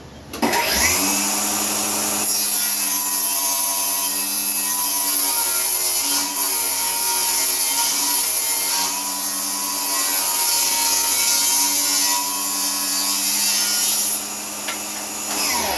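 A handheld power tool motor running steadily while it works wood. It starts about half a second in, runs without a break, and cuts off at the end.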